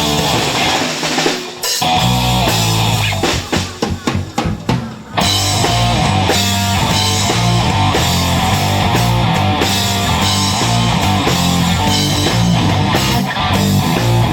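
Live heavy rock band playing. Early on the band drops back to a drum break of separate hits, and about five seconds in the full band comes back in with bass and guitar.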